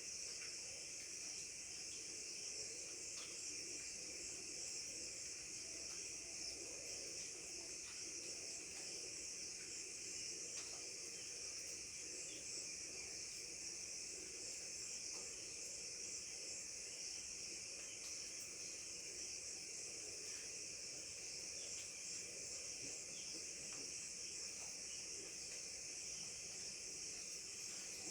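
Steady chorus of insects, such as crickets, a continuous high-pitched shrill with a second, lower steady band beneath it.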